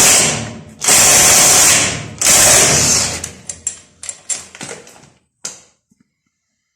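A handheld power tool run in three short bursts on metal, followed by a few scattered clicks and knocks of tools being handled.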